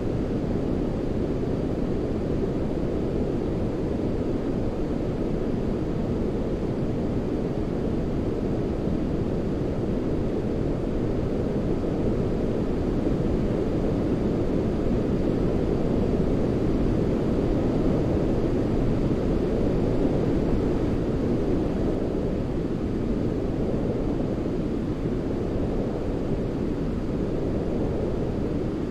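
Steady, deep sleep noise for a baby, closer to brown noise than hissy white noise: an even low rush with little treble, swelling slightly in the middle.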